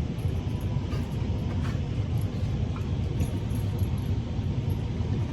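Steady low rumble of background noise with a faint steady hum and a few faint clicks.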